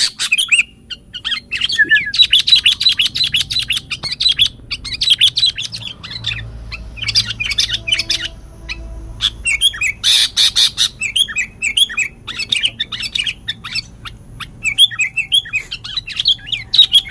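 Caged songbirds chirping and calling in quick runs of sharp, high notes, in phrases of a second or two with short pauses between them.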